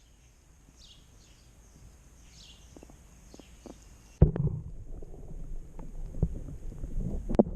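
A handheld camera is plunged into the lake with a sudden splash about four seconds in, then gives muffled underwater rumbling and knocks. Near the end a sharp knock comes as it is brought back up. Before the plunge there are only faint, repeated, falling high chirps over a steady high hiss.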